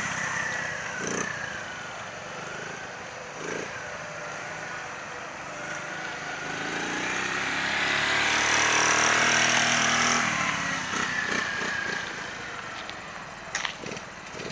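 Small dirt bike engine revving up and down as it rides around, growing loudest about halfway through and then fading away. A few short clicks near the end.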